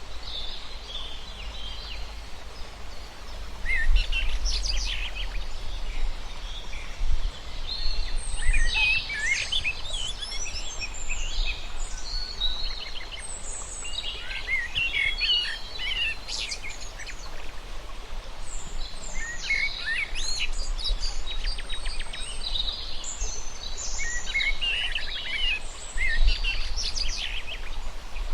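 Birds chirping and singing in repeated bursts of quick, high-pitched calls, over a steady low rumble.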